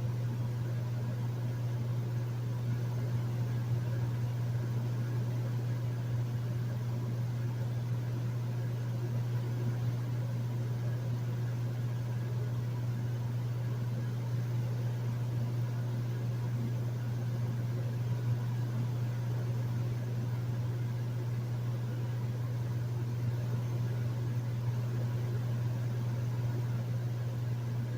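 Hotel room air conditioner running steadily: a constant low hum with a faint fan rush above it.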